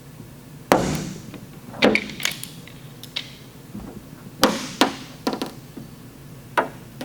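A series of about eight sharp, irregular knocks and clicks as glue-pull tabs and tools are handled on the metal panel while the tabs are released and cleaned off.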